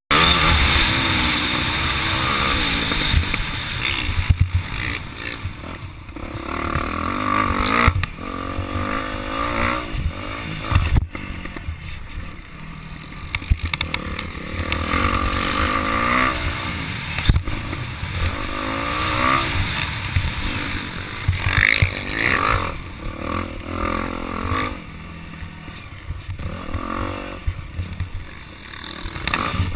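Motocross dirt bike engines revving up and down, their pitch rising and falling again and again as the bikes ride, the sound swelling and fading in loudness.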